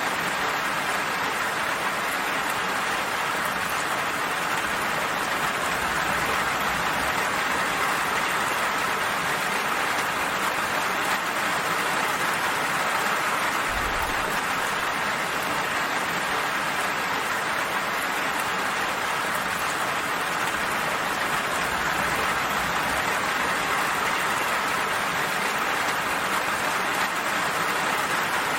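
Steady rain falling, an even hiss of drops with no distinct single impacts, with a brief low rumble about halfway through.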